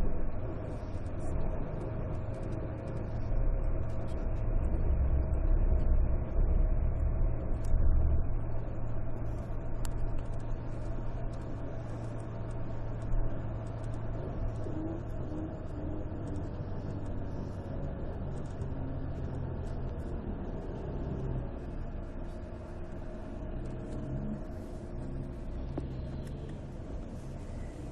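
Volvo D13C 13-litre inline-six diesel engine of a Volvo 9700 coach running with a steady low rumble. It grows louder from about three to eight seconds in, then settles back to a steady level.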